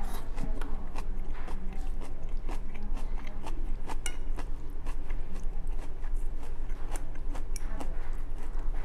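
A person chewing and crunching a mouthful of stir-fried cabbage and rice, with many small crisp clicks throughout, over a steady low hum.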